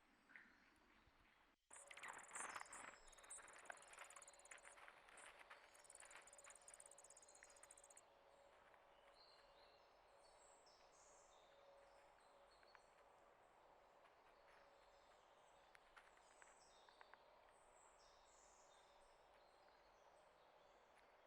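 Faint outdoor birdsong: small birds chirping and calling. For the first several seconds a dense, high trill runs alongside the chirps, then only scattered short calls remain.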